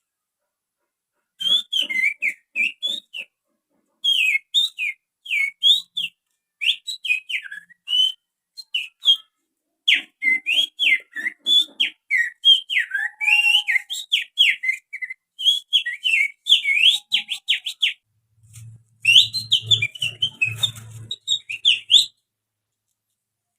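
A person whistling through the fingers to imitate the song of an oriental magpie-robin (kacer). It comes as rapid, sharp chirps and quick rising and falling whistles in short bursts, with brief pauses between phrases.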